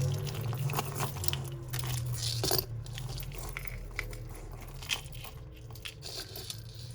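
Costume jewellery being handled and sorted by hand: scattered small clicks and rattles of metal chains and beads, with some crinkling.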